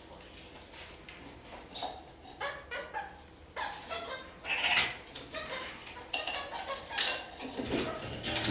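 Red-crowned kakariki (parakeets) chattering in short, chirping calls mixed with light clinks and taps, sparse at first and busier and louder from about halfway in.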